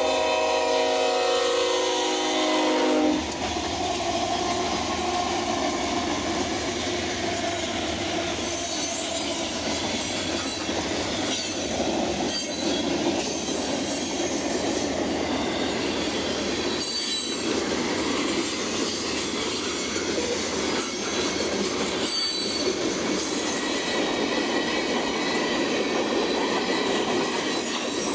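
BNSF freight locomotive's horn blowing a chord at the grade crossing, cutting off about three seconds in. Then the train's freight cars roll past with steady wheel-on-rail clatter and now and then a brief high wheel squeal.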